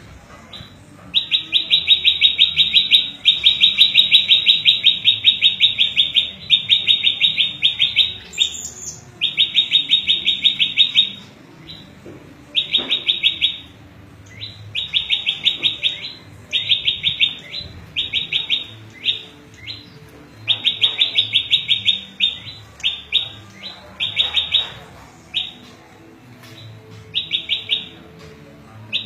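Prenjak lumut, a small Indonesian songbird, singing a fast, repeated trill in bursts of about half a second to two seconds, with short pauses between them.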